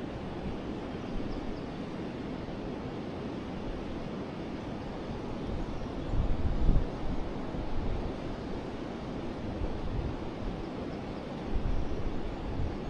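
Forest river flowing in a steady rush of water. Gusts of wind buffet the microphone with a low rumble twice, about halfway through and again near the end.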